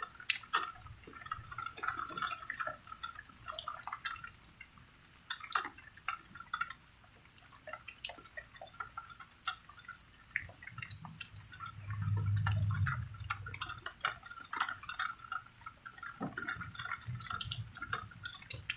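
Rain falling in irregular drips and splashes. A low rumble of distant thunder swells about eleven seconds in and is the loudest part, fading after a few seconds.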